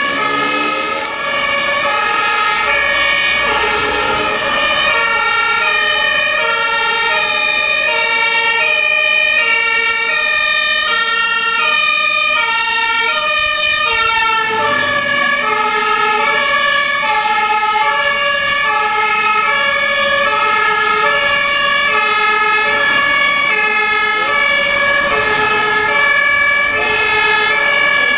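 German two-tone fire engine sirens (Martinshorn) from two works fire brigade vehicles, sounding together out of step so that their alternating high-low tones overlap, with a steady high tone running alongside.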